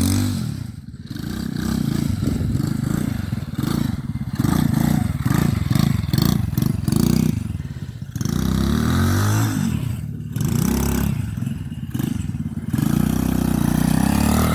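RC quad bike's motor revving in repeated bursts, its pitch rising and falling as the throttle is punched and let off, with some scraping and clattering of the model on the ground.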